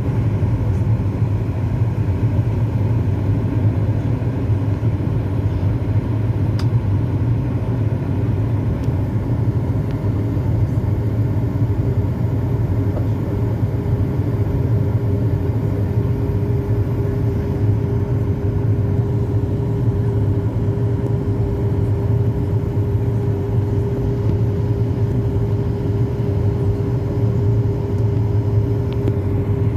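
Boeing 737 MAX 8-200 jet airliner's engines giving a steady, even rumble, with a steady hum coming in about halfway through.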